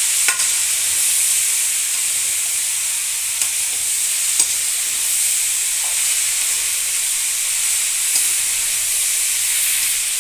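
Chopped cauliflower sizzling as it fries in mustard oil in a metal kadhai, stirred continuously with a metal spatula that knocks and scrapes against the pan a few times.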